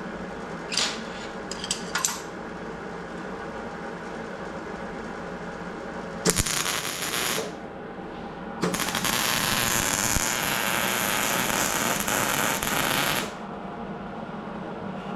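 Electric welding arc crackling and hissing in two runs, a short one about six seconds in and a longer one of about four and a half seconds, over a steady hum. A few light clicks come near the start.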